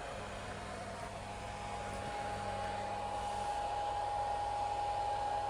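3D printer running while printing PLA: a steady whir of fan noise with a single steady whine that fades in about a second in and grows slightly louder, over a low hum that drops out near the end.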